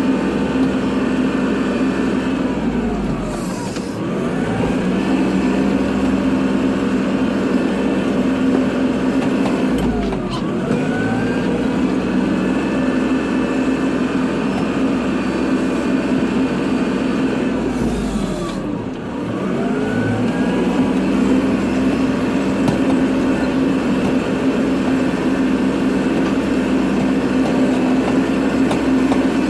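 Kubota tractor's diesel engine running steadily under load while plowing snow, its note dipping and climbing back three times, about four, ten and nineteen seconds in.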